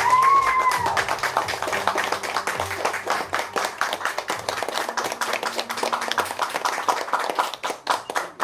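Audience applauding after a poetry reading, with a short rising-and-falling cheer from one listener about half a second in. The clapping thins out near the end.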